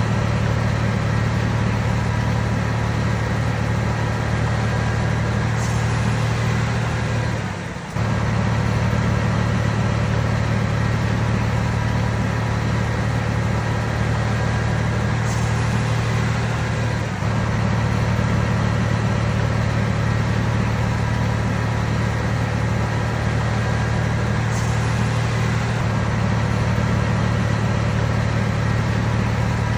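Komatsu D31PX bulldozer's diesel engine running steadily under work, with a brief dip in level about eight seconds in.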